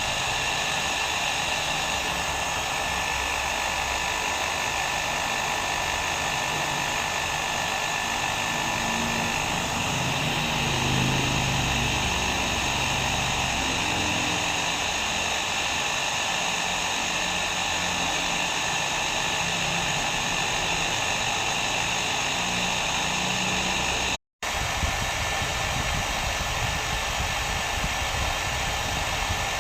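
Hair dryer running steadily: an even rush of blown air with a faint motor whine. The sound drops out completely for a split second about twenty-four seconds in, then carries on unchanged.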